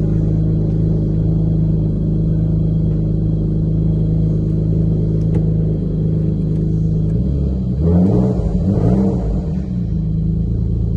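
Alfa Romeo GTV's V6 24-valve engine idling steadily just after a reluctant start, heard from the driver's seat. About seven seconds in the revs rise and fall back to idle for a couple of seconds.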